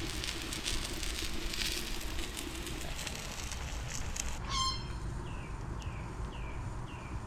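Food sizzling and crackling in a frying pan. Partway through comes a short ringing note, and then a small bird calls with a short falling chirp about twice a second.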